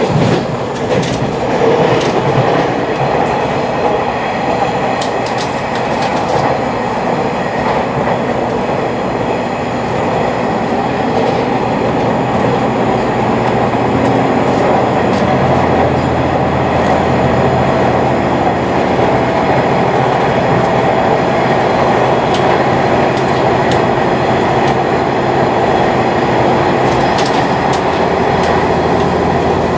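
Interior running noise of a 485-series electric multiple unit (the 'Resort Yamadori' joyful train) rolling along, heard inside the passenger cabin: a steady rumble and hum, with a few sharp rail-joint clacks near the end.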